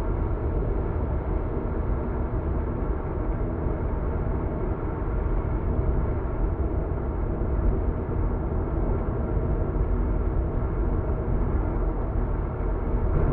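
Steady drone of a car driving on an expressway, heard from inside the cabin: low tyre and road rumble with a faint engine hum at a constant level.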